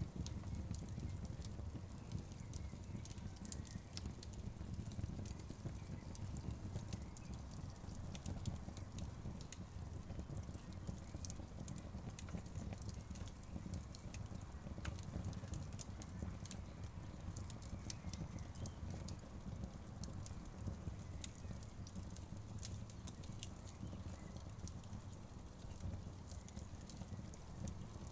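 Wood fire burning, with frequent small crackles and pops scattered irregularly over a low steady rumble.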